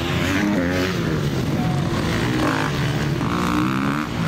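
Enduro motorcycle engines revving up and down in short bursts of throttle as riders pick their way over log obstacles.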